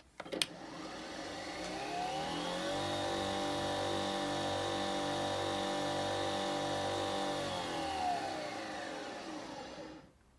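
Nespresso Vertuo Next spinning its capsule: a click, then a motor whir that rises in pitch for about two seconds, holds steady, then winds down and stops near the end.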